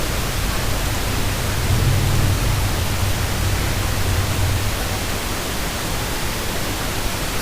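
Steady hiss with a low hum underneath: the background noise of the narration microphone during a pause in speech.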